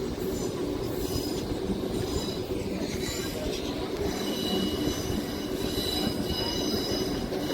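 Railway carriage running along the track: a steady rumble of wheels on rails with thin, high wheel squeals over it.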